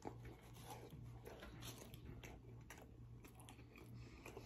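Faint biting and chewing of a soggy chili cheeseburger, with soft irregular wet mouth clicks over a low steady hum.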